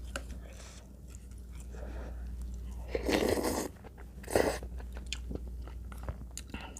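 Close-up eating sounds: chewing and crunching of food, with many small crunchy clicks and two louder noisy bursts around the middle.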